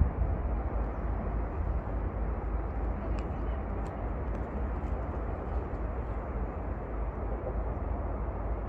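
Wind rumbling on the microphone outdoors: a steady low rumble with hiss above it, and a few faint ticks about three to four seconds in.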